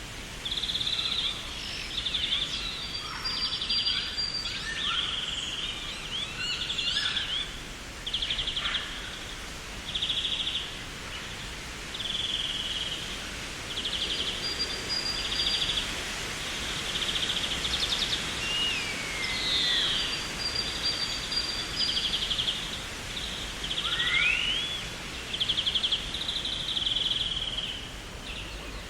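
Garden birds calling: short, rapid trills repeated about once a second, with a few sliding whistles from other birds, over a steady hiss.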